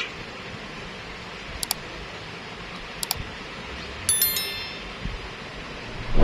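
Steady background hiss, with two sharp double clicks a second and a half apart, then a brief high ringing like a small chime, and a thump at the end.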